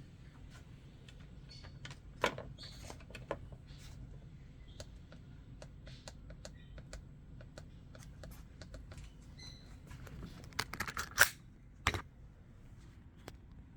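Scattered light clicks and taps of small tools or parts being handled at a workbench, with a louder run of clacks about eleven to twelve seconds in, over a low steady hum.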